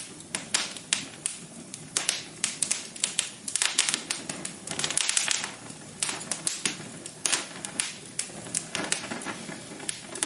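Wood fire crackling, with irregular sharp pops and snaps coming in clusters, some quicker and denser than others.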